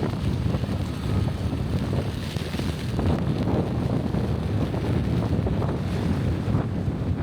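Heavy wind buffeting the microphone: a loud, steady, fluttering rumble with most of its weight in the low end.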